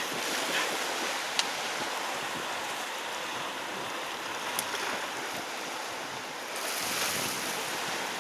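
Sea surf washing against a rocky shore, a steady hiss with a couple of faint clicks.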